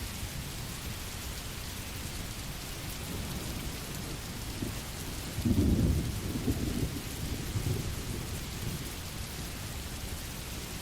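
Steady rain, with a low roll of thunder about five seconds in that fades away over the following few seconds.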